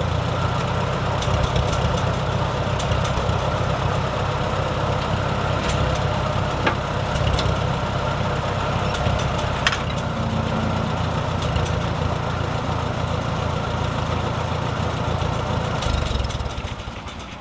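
Loader engine running steadily, with scattered sharp metallic clinks over it; the engine sound drops away near the end.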